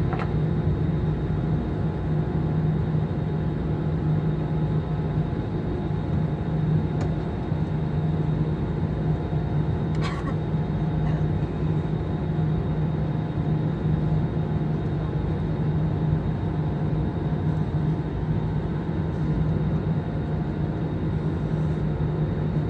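Airliner cabin noise on the ground before takeoff: the steady hum of the jet engines and cabin air, with a strong low drone. A brief click about ten seconds in.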